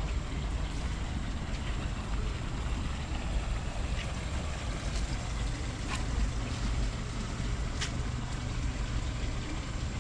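Steady low rumbling outdoor noise with a few faint short clicks or chirps scattered through it.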